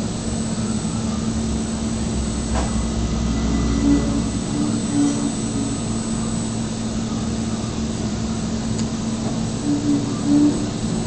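DMU 65 five-axis CNC milling centre running, a steady machine whir with a constant hum; a deeper rumble under it drops away about four and a half seconds in.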